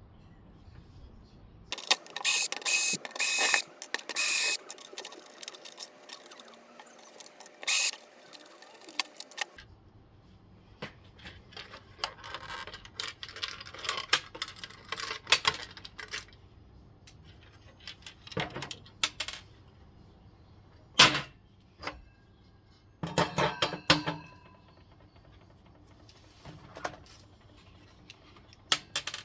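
Irregular metallic clinks, clicks and short rattling clatters, as of hand tools and small metal parts being handled and dropped while an air-conditioner unit is taken apart for scrap.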